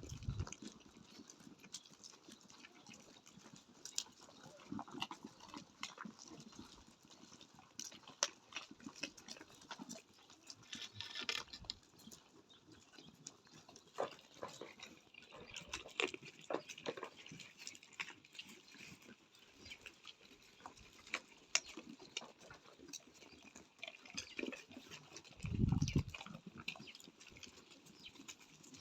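A herd of goats moving about, with scattered clicks and knocks and occasional faint bleats. A brief low rumble on the microphone comes near the end.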